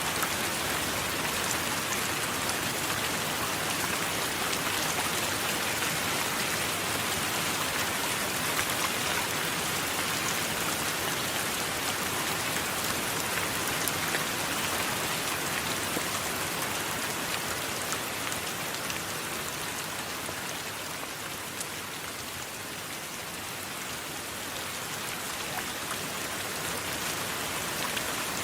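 Steady heavy rain falling on a surface, an even hiss with fine drop ticks, easing slightly a little past the middle and then picking back up.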